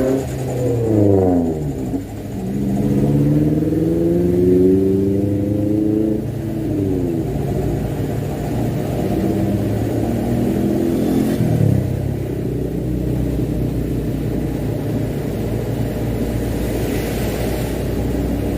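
Mitsubishi Canter dump truck's diesel engine pulling a heavy load of wet sand and accelerating through the gears: its pitch rises and drops sharply at gear changes about a second in, around six seconds in and near eleven seconds, then holds steady.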